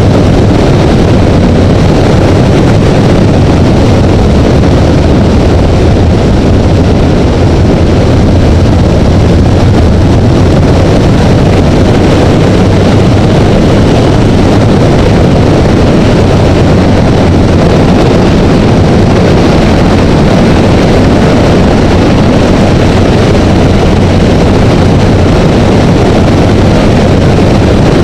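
Honda Rebel motorcycle cruising at steady freeway speed: a loud, unchanging rush of wind and road noise with the engine's steady drone underneath.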